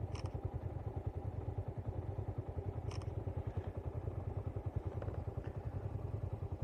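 Yamaha YBR 125's single-cylinder four-stroke engine running steadily under way on a ride, with a couple of faint ticks.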